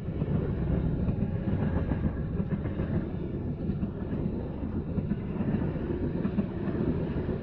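Diesel-hauled passenger train passing slowly, with a steady rumble of wheels on the rails.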